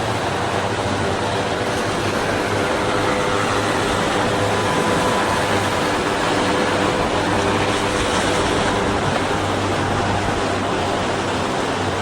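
Power boat engines running: a steady hum under a wash of water and wind noise, with no clear rise or fall.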